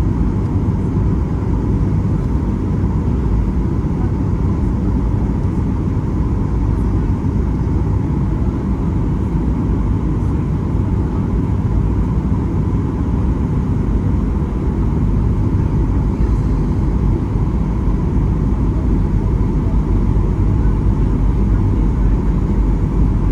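Boeing 737-800 cabin noise: a steady, heavy low rumble of engines and airflow with a thin steady whine above it.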